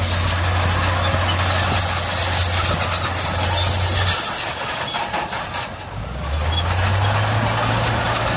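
Heavy diesel earthmoving machinery running with a steady low engine note over a dense metallic clatter. About four seconds in, the engine note drops away and the sound eases briefly; about two seconds later the note comes back and rises.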